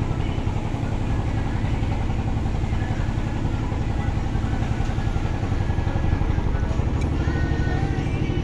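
Ship's engine running with a steady, rapid low throb.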